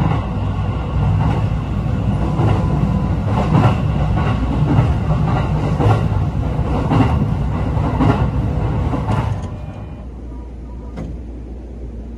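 E531 series electric train running at speed, heard from inside the carriage: a steady low rumble with rail-joint clacks about once a second. Near the end it cuts abruptly to a much quieter, even background.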